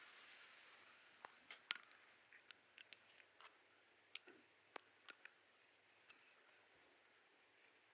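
Soft rubbing hiss for about two seconds, then a scatter of light clicks and taps, two of them sharper near the middle, from massage or hair-play tools being worked and handled.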